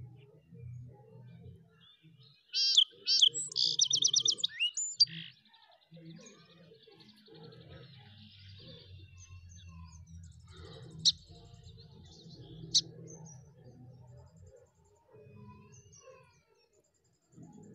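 A bird chirping: a loud burst of quick trilled notes begins about two and a half seconds in and lasts a couple of seconds. Fainter chirps and two sharp short calls follow later, over a faint low murmur.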